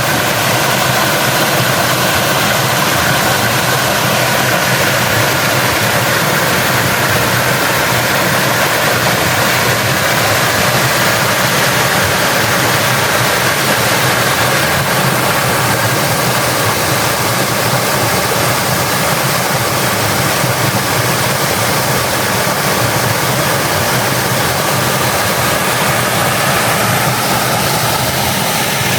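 Waterfall rushing, a loud, steady roar of falling water that does not change.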